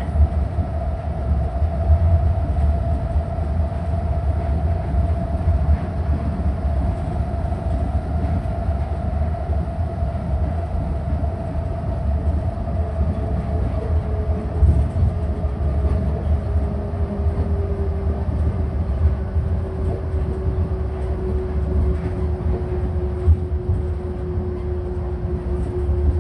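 Nippori-Toneri Liner automated guideway train running along its elevated track, heard from inside the car: a steady low rumble from the rubber tyres on the concrete guideway, with a motor whine that slowly falls in pitch. A second, lower whine joins about halfway through and also slowly sinks.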